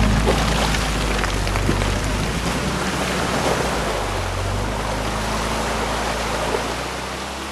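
UAZ Patriot engine running at low revs under a steady rushing noise, the sound slowly fading near the end.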